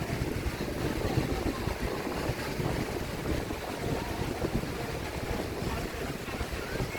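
Strong wind buffeting the microphone in uneven gusts over the wash of sea surf.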